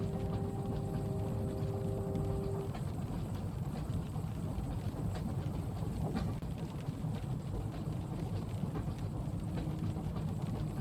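Train carriage ambience: a steady low rumble from the moving train, with scattered light taps over it. A steady hum stops about two and a half seconds in.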